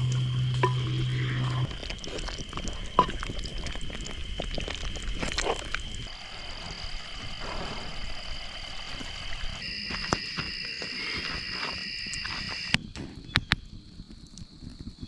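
Forest insect chorus, crickets by the uploader's account, singing in steady high-pitched tones that change a few times, with scattered sharp clicks and snaps over it. A low steady hum underneath stops about two seconds in.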